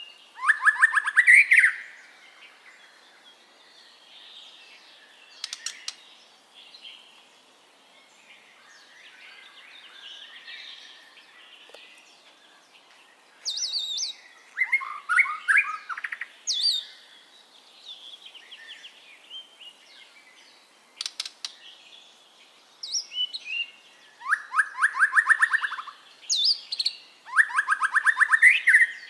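White-rumped shama (murai batu) singing. Loud bursts of fast repeated whistled notes come near the start, in the middle and toward the end, with quieter warbling and chattering in between.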